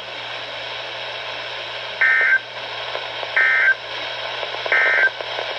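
NOAA Weather Radio receiver hissing between messages, then three short bursts of digital data tones about a second and a half apart. These are the SAME header that opens a new emergency alert.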